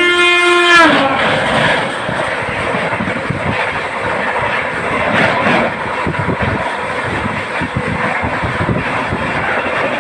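Train horn blowing a multi-tone chord that sags in pitch and cuts off about a second in, followed by the steady noise of the train running, with wheel clatter.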